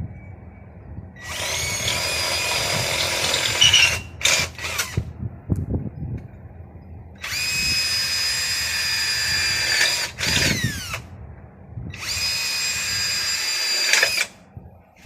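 Power drill running in three bursts of about three seconds each, a steady high motor whine that slides down in pitch as it spins down after the second burst. Light knocks and handling sounds fall between the bursts.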